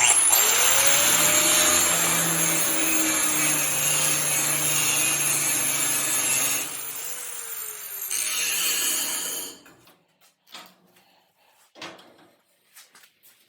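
Electric angle grinder spinning up with a rising whine and grinding on the steel of a farm disc frame for about six seconds, easing off as its whine falls, then grinding again briefly before stopping about nine and a half seconds in. A few light clicks follow.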